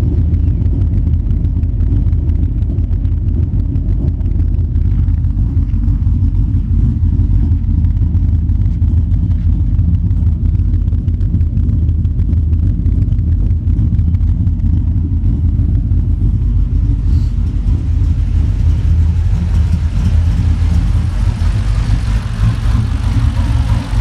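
Ford XR8's V8 idling steadily and warm through its twin 3-inch exhaust with X-pipe, hot dogs and a single muffler, moments after starting.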